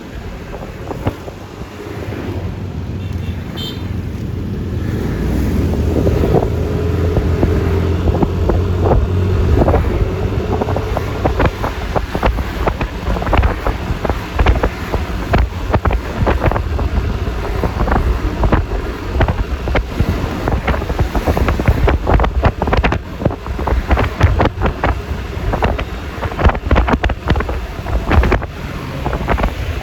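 Wind buffeting on the microphone over the rumble of a Yamaha Lexi LX 155 scooter's single-cylinder engine and road noise while riding. It grows louder over the first several seconds as the scooter picks up speed, then stays steady.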